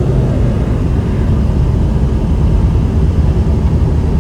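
A 2001 Jeep Cherokee XJ driving at road speed: its 4.0 straight-six engine running steadily along with tyre and road noise, a constant low rumble heard from inside the cab.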